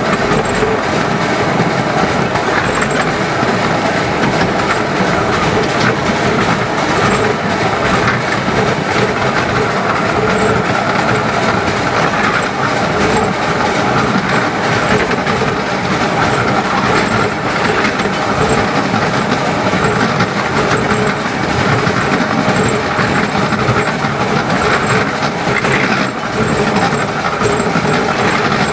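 10¼-inch gauge steam train under way, heard from an open carriage behind the locomotive: steady running noise of wheels on rail with a clickety-clack over the rail joints.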